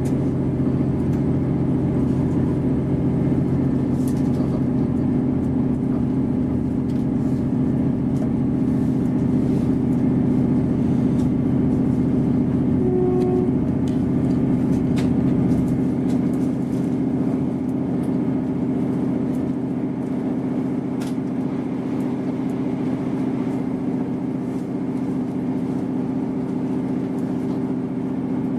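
Inside a Class 158 diesel multiple unit running along the line: a steady drone of the underfloor diesel engines with wheel and rail noise and a few faint clicks, growing slightly quieter in the second half.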